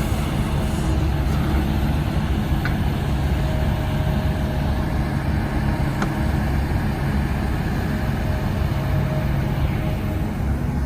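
Diesel engine of a heavy earthmoving machine running steadily at working speed, with two faint, brief high-pitched sounds about three and six seconds in.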